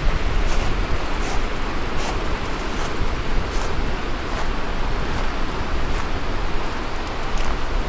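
Wind buffeting the microphone in a steady rumbling roar, with the walker's footsteps ticking at an even pace of a little more than one step a second.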